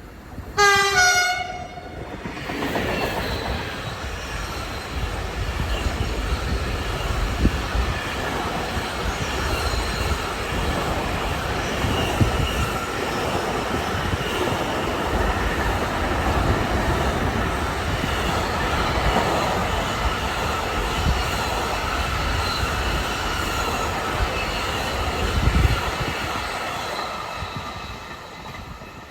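Locomotive horn sounds once, loud, about half a second in, then a container freight train passes: a long steady rumble of wheels on rail with occasional knocks, fading near the end.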